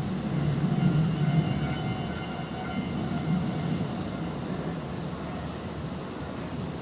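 Tobu 10050-series electric train running on the rails, a steady low rumble heard from inside the carriage. Thin high-pitched squealing tones rise over it in the first couple of seconds, then the plain running noise goes on.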